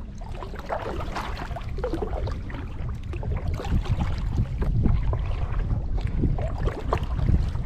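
Kayak paddle strokes splashing and dripping in lake water, irregular and growing a little louder, over a steady rumble of wind on the microphone.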